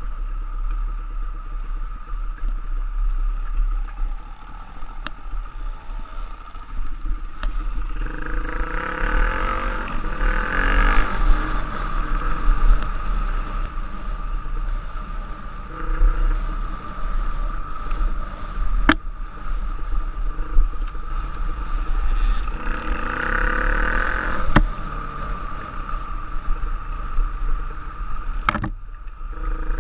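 Enduro dirt bike engine being ridden along a trail, revving up and easing off twice, over a constant low wind rumble on the microphone. A few sharp knocks come through, the clearest about two-thirds of the way in and near the end.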